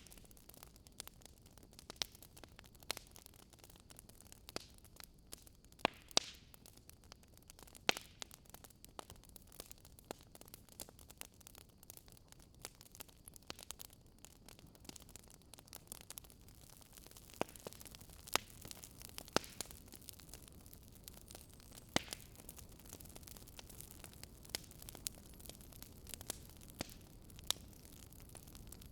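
Fire in a fireplace crackling: irregular sharp pops and snaps over a soft, steady hiss.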